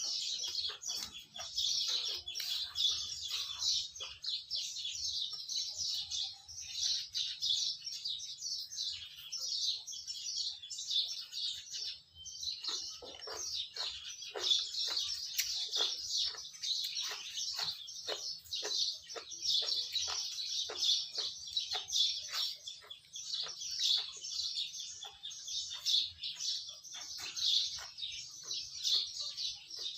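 Many small birds chirping without a break. From about thirteen seconds in, a run of light taps or clicks sounds under the chirping.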